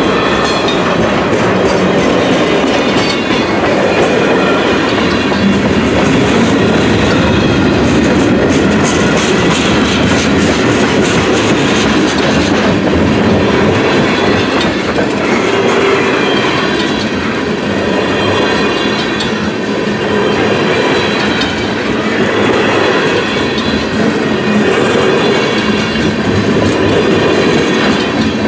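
Tank cars and covered hoppers of a long freight train rolling past close by: steel wheels clattering over rail joints above a steady, loud rumble.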